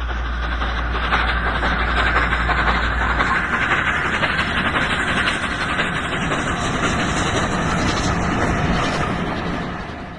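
A train running, a steady dense rushing noise with a low hum in the first few seconds, fading out at the very end.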